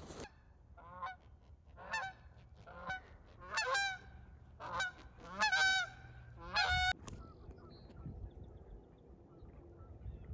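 Geese honking: about seven loud honks over some six seconds, then they stop.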